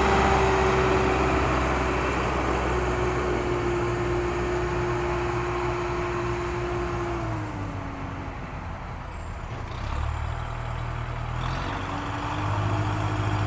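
A vehicle engine running steadily. It slows and drops in pitch about seven seconds in, then picks up again near the end.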